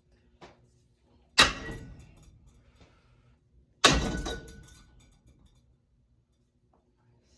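Two hard strikes on a cheap ceiling fan, about two and a half seconds apart. Each has a short ringing tone that fades over about a second, over a faint steady hum.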